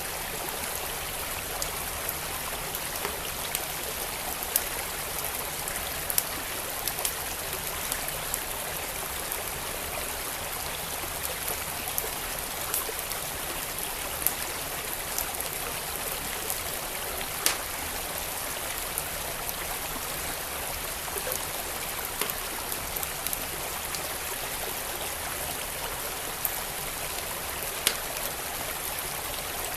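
Steady rush of a flowing stream with a fireplace fire crackling over it, sharp pops at irregular intervals, a few of them louder than the rest.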